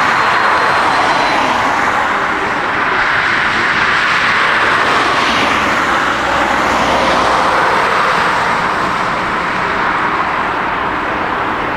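Jet airliner engines heard close by, loud and steady, with the tone sweeping down and back up about halfway through as the aircraft passes.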